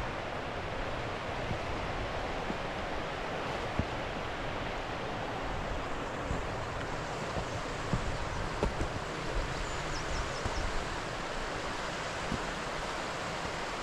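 A steady rushing noise, like running water or wind on the microphone, with a few faint knocks and scuffs from slow footsteps on a rough track.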